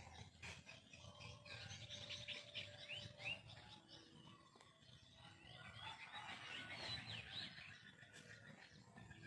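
Faint birdsong: several birds chirping, with short rising whistled notes that are busiest about two seconds in and again around six to seven seconds, over a low rumble.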